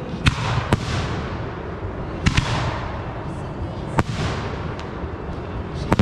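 Consumer fireworks going off: about six sharp bangs at uneven intervals, some in quick pairs.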